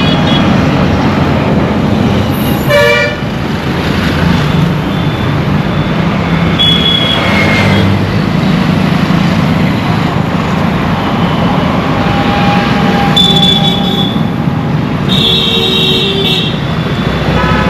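Busy Indian street traffic: a steady din of vehicle engines with repeated horn honks. A loud horn blast comes about three seconds in, and several more horns sound in the second half, one of them held for over a second.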